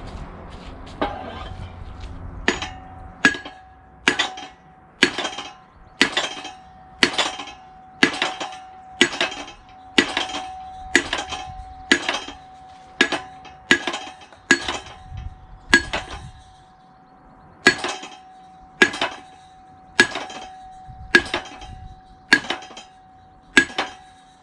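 Hammer blows on metal, about one a second with a short pause about two-thirds of the way through; each strike rings. The blows are likely driving out the engine's seized piston.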